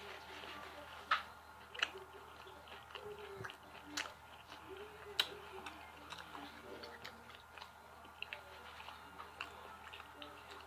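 Close-up chewing of a breaded, cream-cheese-filled jalapeno popper: soft mouth sounds broken by scattered sharp clicks, the strongest about one, two, four and five seconds in.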